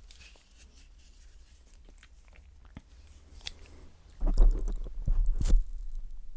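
Close-up wet mouth sounds right on the microphone: faint clicks at first, then about four seconds in a loud run of smacking, licking-like clicks with low thumps against the mic.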